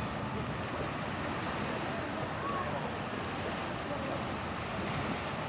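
Steady rushing of sea waves on the shore mixed with wind on the microphone.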